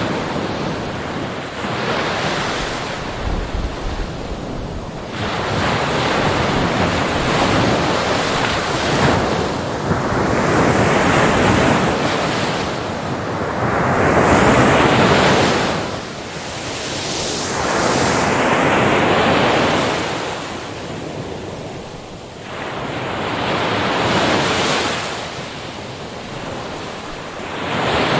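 Ocean waves breaking on a beach, the surf swelling and ebbing every few seconds, with wind buffeting the microphone.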